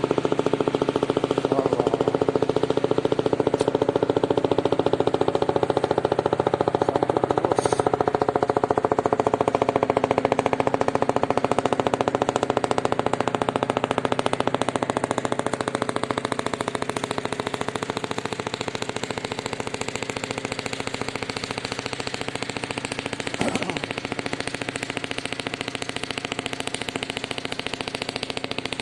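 A small engine running steadily with a rapid pulsing beat, easing off slightly about halfway through, with a brief knock near the end.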